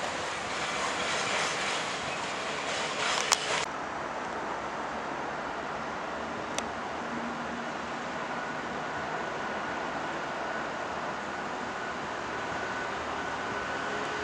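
A Freightliner Class 66 diesel locomotive (EMD two-stroke V12) approaching slowly along the platform line, a steady rumble with a faint whine that comes in about eight seconds in. In the first few seconds, before a cut, a freight train's wagons roll away.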